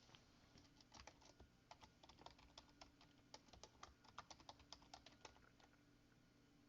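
Computer keyboard typing: a quick, irregular run of faint keystrokes that stops about five and a half seconds in.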